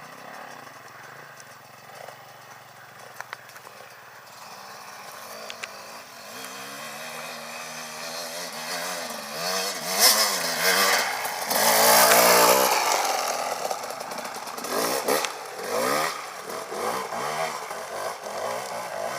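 Motorcycle engine revving up and down, growing louder to its loudest about twelve seconds in, then a run of short revs near the end.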